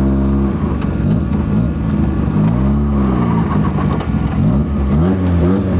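Mazda RX-7's bridgeported, turbocharged six-port rotary engine, heard from inside the car while driving. It revs up and eases off about three times, rising and falling in pitch as the throttle is worked.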